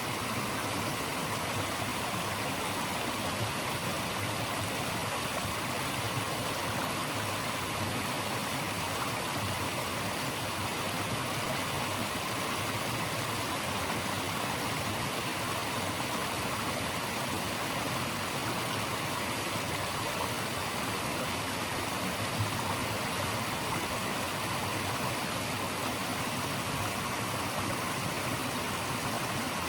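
Steady, even rush of flowing water, like a stream or small rapids, with no change in level throughout.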